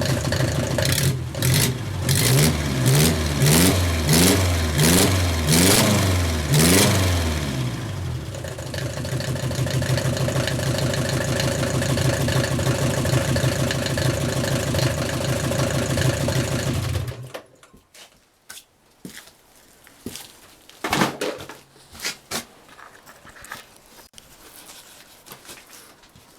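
Mercedes-Benz OM 601 four-cylinder diesel engine revved in a series of quick throttle blips, then settling to a steady idle. It is shut off about two-thirds of the way through and goes quiet.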